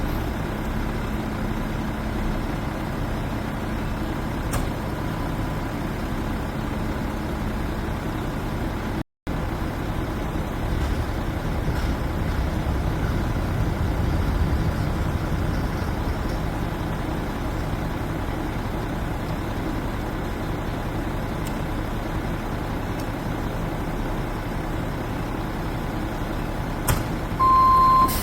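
Garbage truck engine running steadily, cut off by a brief dropout about nine seconds in. A truck's reversing beeper starts sounding just at the end.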